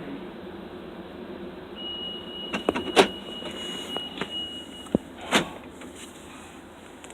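Car power window motor running, with several sharp clunks and a steady high beep lasting about three seconds.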